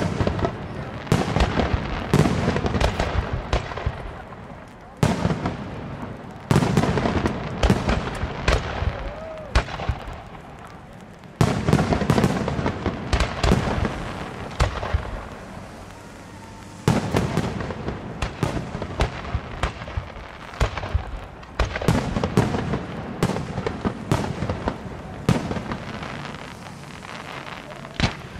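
Aerial firework shells bursting in quick succession, a rapid run of sharp bangs and reports. Several heavy bursts, about every five seconds, each set off a louder stretch that fades away before the next.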